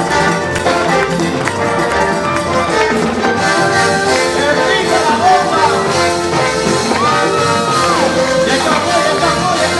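Live Puerto Rican plena music from a band with brass horns and singing.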